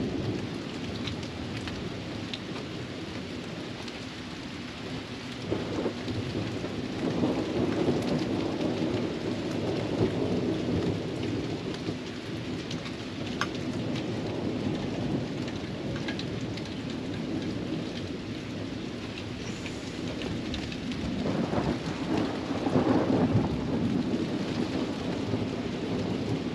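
Heavy rain falling steadily, with thunder rolling in long rumbles: one swells about five seconds in and lasts several seconds, and another comes past twenty seconds.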